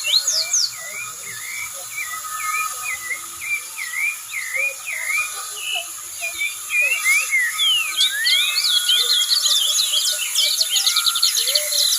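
Dawn chorus of birds: one bird repeats a short swooping note about twice a second, and about eight seconds in a rapid flurry of high chirps joins it, over a steady high-pitched insect drone.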